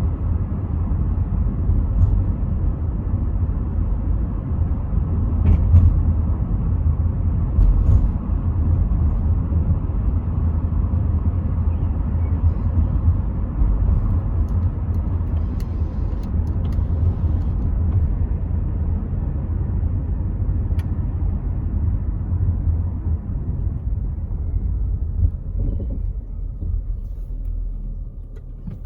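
Inside the cabin of a Rover 75 V6 estate on the move: a steady low rumble of engine, tyres and wind through partly open windows. It eases slightly near the end.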